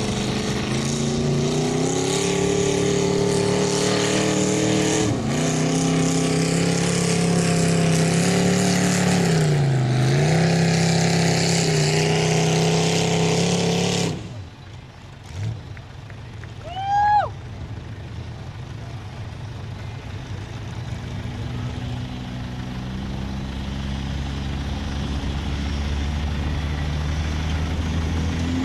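Diesel pickup truck engine running hard under load while pulling the sled, its pitch dipping twice, then cutting off suddenly about halfway. After a brief sharp squeal, a quieter diesel engine runs low and starts to rev up near the end.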